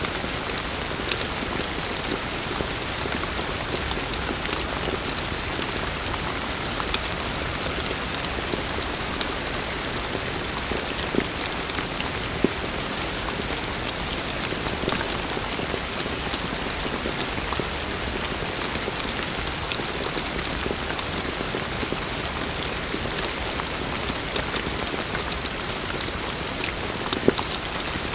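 Heavy rain falling steadily, a dense even hiss with scattered sharp drop impacts.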